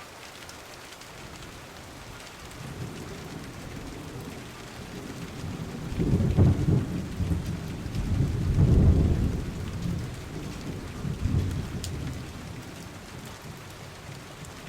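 Steady rain with thunder rolling, swelling to deep rumbles about six seconds in and loudest about nine seconds in, then fading.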